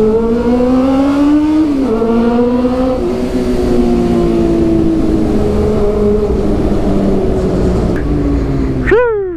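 Honda CB400's inline-four engine through a Two Brothers aftermarket exhaust, pulling hard with the revs climbing, shifting up about two seconds in and again about three seconds in, then holding steady, slowly easing revs. Near the end it gives a sharp rev blip. Wind rumbles on the microphone throughout.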